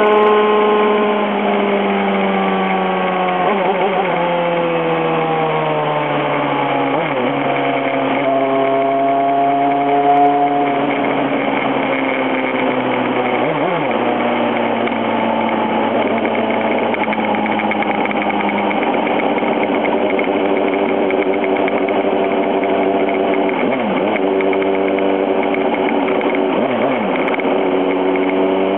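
Sport motorcycle engine slowing down from high speed, its revs falling with brief breaks and pitch jumps at several gear changes, then running steadily at lower revs, with wind rush over it.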